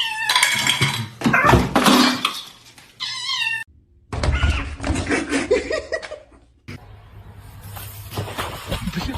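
A domestic cat meowing: one meow right at the start and another about three seconds in, with knocking and clattering between them.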